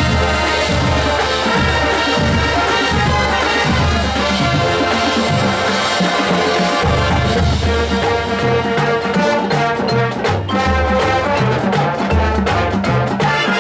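High school marching band playing: brass chords over drums and a low repeating bass line, with sharper drum hits in the second half.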